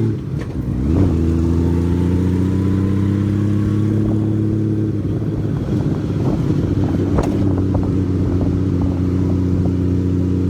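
Honda Valkyrie flat-six motorcycle engine running under way: the pitch drops briefly near the start, then climbs slowly for several seconds before levelling off. A single sharp click about seven seconds in.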